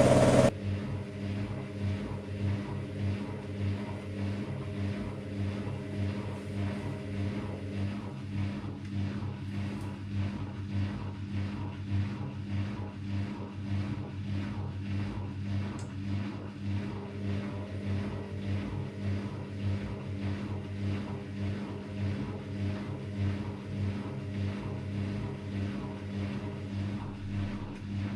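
AEG Lavamat Turbo washer-dryer running mid-cycle: a steady motor hum with an even, fast pulsing as the drum turns. A louder sound cuts off about half a second in.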